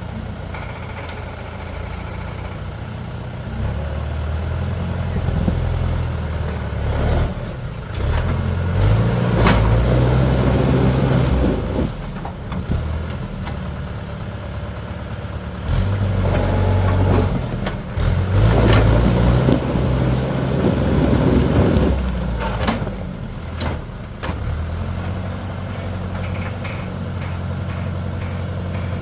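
Tractor diesel engine running, revving up louder twice under load, with a few sharp knocks.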